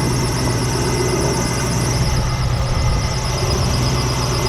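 C5 Corvette's 5.7-litre V8 idling steadily with a high-pitched chirping squeal from the accessory belt drive that a new belt tensioner has not cured; the owner suspects a wobbling harmonic balancer.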